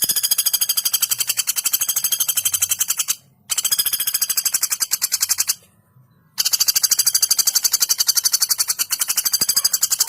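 Female common flameback woodpecker (pelatuk bawang) giving its long, rapid, high-pitched rattling call. There are three long runs with brief pauses about three and a half seconds in and between roughly five and a half and six and a half seconds in.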